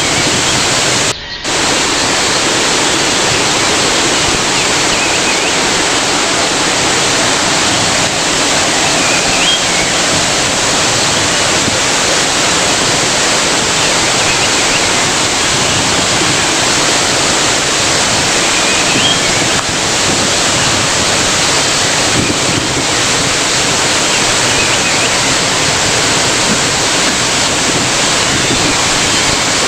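Waterfall rushing: a loud, steady wash of falling water. It drops out for a moment about a second in. A faint short rising bird chirp sounds a few times, roughly every ten seconds.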